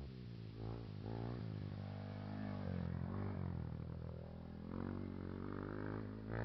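Motocross dirt bike engines revving up and down as the riders work the throttle and shift around the track, the pitch rising and falling several times.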